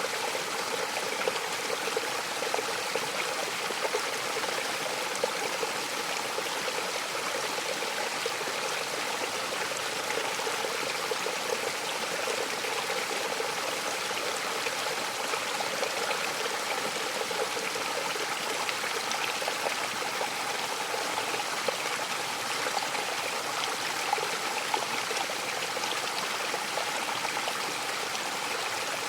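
Waterfall splashing down onto rocks and water, a steady rushing hiss with small splashes scattered through it.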